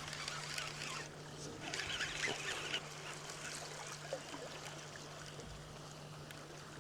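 Birds calling in the first few seconds, over a faint steady low hum.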